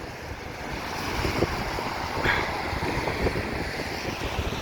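Wind blowing across the microphone: a steady rushing with uneven low rumbling gusts.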